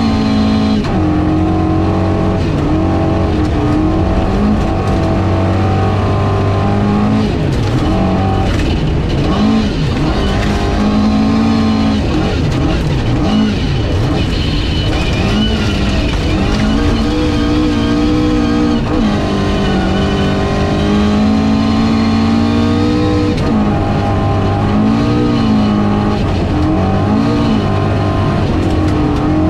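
Ford Escort RS 2000 rally car's engine at full stage pace, heard from inside the cabin, its revs climbing and dropping again and again through gear changes and lifts for corners.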